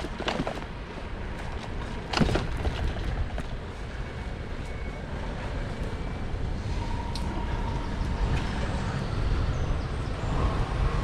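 Steady low rumble of outdoor background noise. Two sharp knocks come just after the start and about two seconds in.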